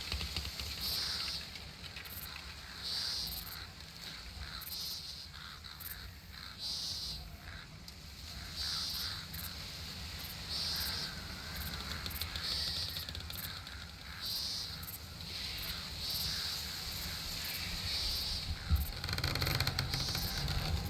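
Outdoor summer nature ambience: a short, high, hissy call repeats about every two seconds over a steady low rumble. Near the end a louder rushing sound swells briefly.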